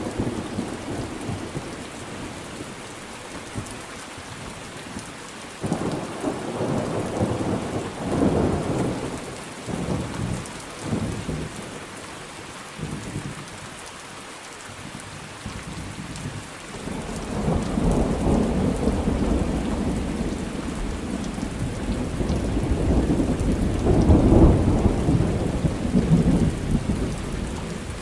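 Thunderstorm: steady rain with rolls of thunder rumbling in, one from about six to eleven seconds in and a longer one building from about seventeen seconds, loudest about twenty-four seconds in.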